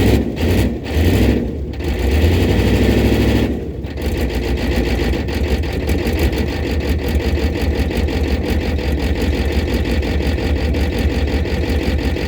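Ford 6.9 IDI V8 diesel running a little rough after long disuse. It surges unevenly for the first few seconds, then about four seconds in settles into a steady, fast, clattering run.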